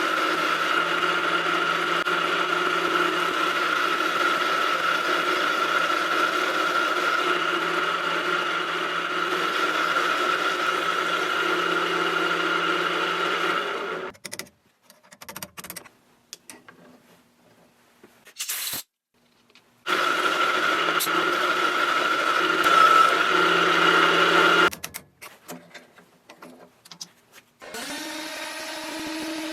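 Wire-feed welding with dual-shield flux-core wire: a steady buzzing arc laid down as one long weld of about 14 seconds, then a second, shorter weld of about 5 seconds, with brief quiet pauses and small crackles between.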